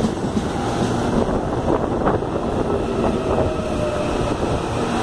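CAF Série 7000 electric multiple unit passing close by: a steady loud rumble of wheels running on rail as the cars go past.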